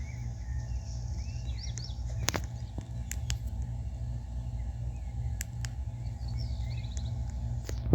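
Faint bird chirps and short trills over a steady low rumble, with a few sharp clicks.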